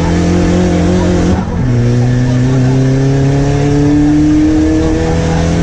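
Rally car's turbocharged 1.8-litre engine under hard acceleration, revving up through the gears. The pitch climbs, drops sharply at an upshift about a second and a half in, then climbs again to a second upshift near the end.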